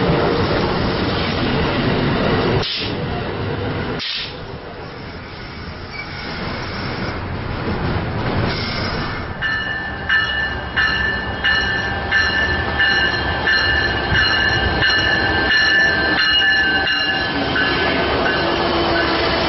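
Amtrak passenger train passing at close range, its locomotive and cars rumbling by. After a cut, another train approaches and its cars roll past with a high, steady wheel squeal and regular clicks from the wheels over the rail joints.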